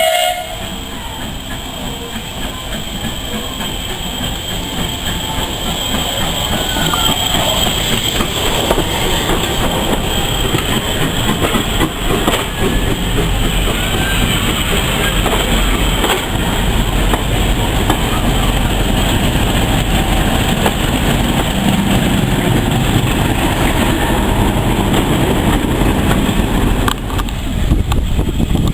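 Heritage railway train running along the rails, growing louder over the first several seconds and then holding steady.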